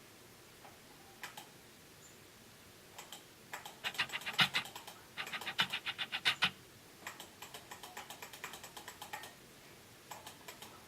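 Computer keyboard typing: a few single key clicks, then two quick runs of rapid keystrokes, then lighter, evenly spaced taps.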